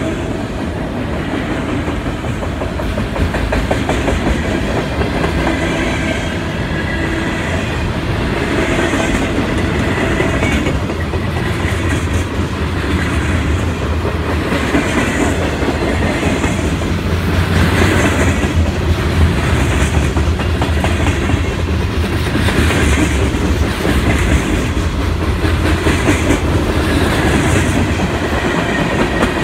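A mixed freight train of autoracks, covered hoppers and tank cars rolling past close by: a steady, loud rumble of steel wheels on rail, with a rhythmic clickety-clack about every second as the car trucks pass over the rail joints.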